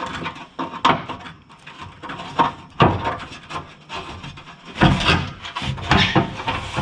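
Irregular scraping and knocking of hand tools working a threaded bolt, getting louder and busier in the second half.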